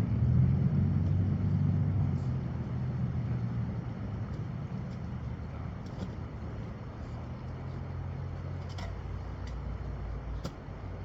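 A motor vehicle's engine runs with a low, steady hum that is loudest for the first few seconds and then eases off. A few faint ticks sound near the end.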